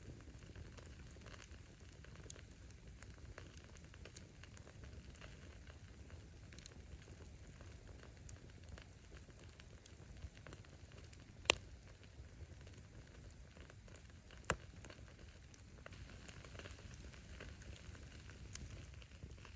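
A wood bonfire burning: a low steady rush of flame with light crackling of the firewood, and two sharp loud pops from the burning logs a little past halfway, about three seconds apart.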